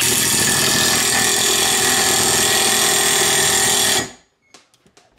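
Power tool running hard and steadily on the RZR's lower control arm for about four seconds, then cutting off suddenly.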